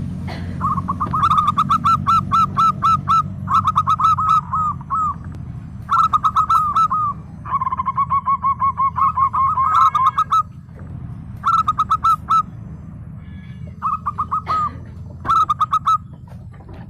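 Zebra dove (perkutut) singing: about seven bursts of rapid, staccato cooing notes, each burst lasting about one to three seconds, over a steady low hum.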